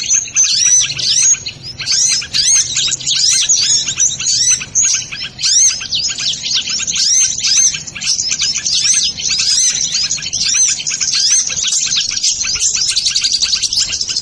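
Dense, non-stop high-pitched twittering of sunbirds, many rapid chirps overlapping throughout.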